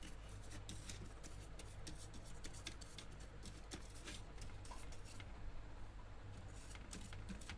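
A brush scrubbing a set-top box's circuit board to clean it: faint, quick, irregular scratchy strokes over a steady low hum.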